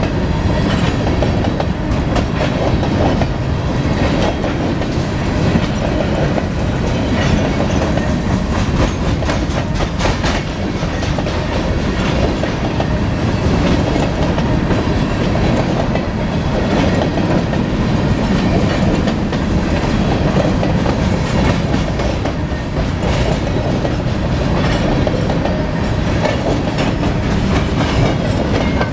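Freight train of covered hopper cars rolling past close by: a steady loud rumble with wheels clicking over the rail joints.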